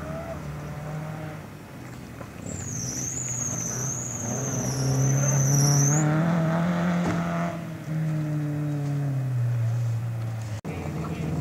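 Rally car engine running, its revs rising in the middle and then sliding down near the end. A high wavering whistle-like tone sounds for a few seconds over it.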